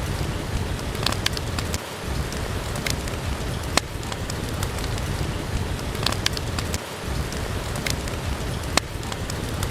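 Steady rain hissing, with a wood fire crackling over it in sharp, irregular pops, a few each second or two.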